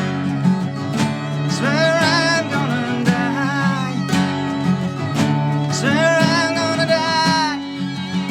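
Live band music between sung verses of a dark ballad: acoustic guitar strumming steady chords, with a wavering melody line held out twice.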